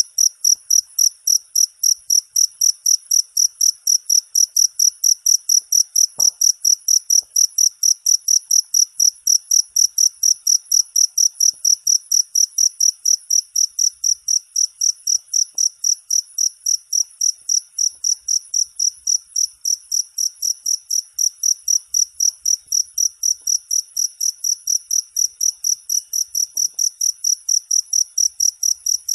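Cricket chirping steadily, a regular train of high-pitched chirps at about three a second.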